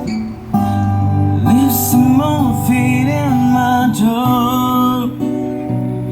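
Acoustic guitar strumming, with a voice singing a sliding melodic line from about a second and a half in until about five seconds in.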